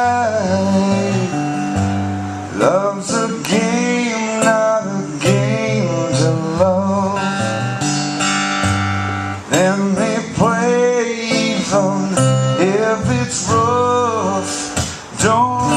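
Live country band playing an instrumental break, with strummed guitar and bass under a lead melody line that bends and slides in pitch.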